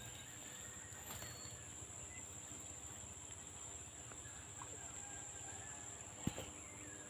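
Faint field ambience with a steady, high-pitched insect trill, with a single soft knock about six seconds in.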